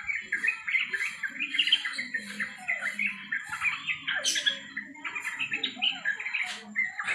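Yellow-vented bulbul (trucukan) chattering, a fast, unbroken run of short bubbly call notes.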